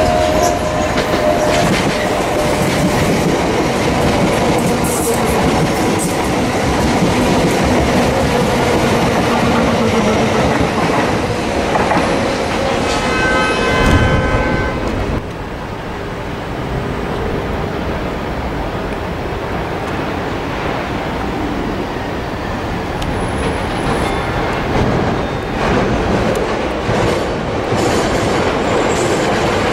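Class 442 electric multiple unit running through the station: wheels clattering over the rails under a slowly falling motor whine, with a short horn blast about 13 seconds in. After that, a quieter, steady rumble of another passing train.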